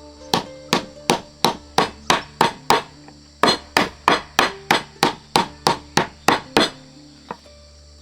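A cleaver chopping on a wooden cutting board: hard, even strikes at about three a second, a run of eight, a short pause, then a run of about ten.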